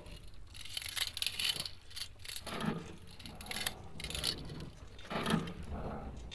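Rust being scraped off metal in a series of uneven scraping strokes, a couple each second.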